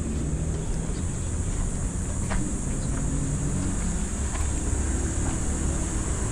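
Steady low rumble of an engine running, with a constant high insect drone over it and a few faint ticks.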